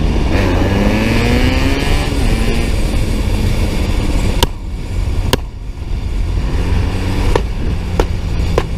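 A vehicle engine revs up, its pitch climbing over about the first two seconds, then runs on under steady road noise. Five sharp cracks cut through it, the first two loudest.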